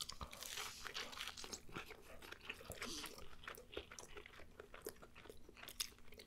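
A bite into a piece of gyro pita with shredded lettuce, then steady crunchy chewing close to the microphone.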